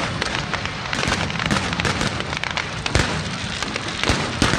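Aerial fireworks display at full barrage: many shells bursting in quick succession, with sharp bangs over a continuous crackle.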